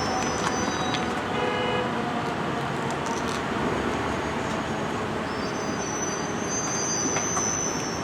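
Steady street traffic and heavy vehicle engine noise, with a short horn toot about a second and a half in.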